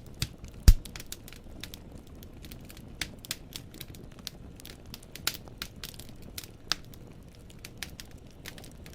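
Wood fire burning in a fireplace, the logs crackling with irregular sharp pops over a low rumble. One much louder pop with a thud comes just under a second in.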